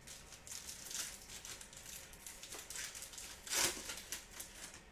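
Trading cards and their pack being handled: a run of soft clicks and rustles as cards are slid and flipped, with one louder swish about three and a half seconds in.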